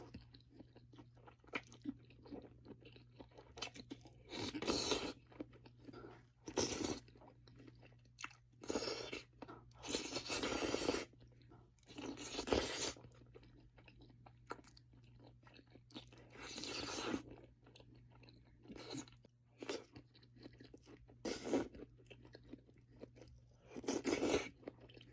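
Close-miked chewing and eating of Buldak noodles and imitation crab, coming in separate bursts every second or two, some lasting about a second.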